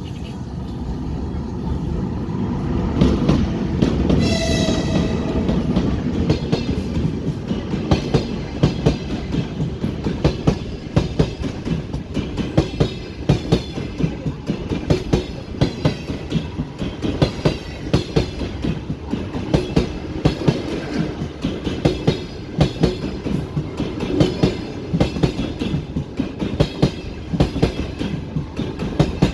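Passenger train passing at speed: about four seconds in the locomotive gives a short horn blast, then the carriage wheels clatter over the rail joints in a fast, steady clickety-clack.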